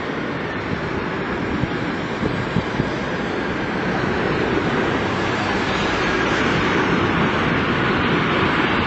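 Jet airliner engines, a steady rushing noise growing slowly louder, with a faint falling whine, mixed with wind on the microphone.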